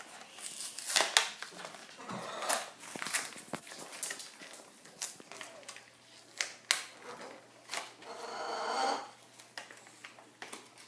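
A die-cast model car being taken out of its cardboard collector box and plastic packaging by hand: scattered clicks and knocks with a few short stretches of scraping and rustling.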